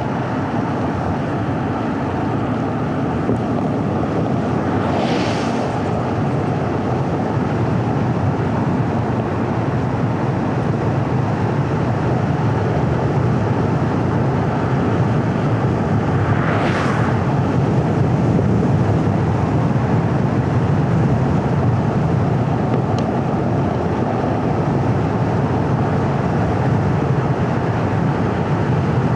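Steady road and tyre noise of a car driving on a paved road, with two brief hissing swooshes about five seconds in and again about seventeen seconds in.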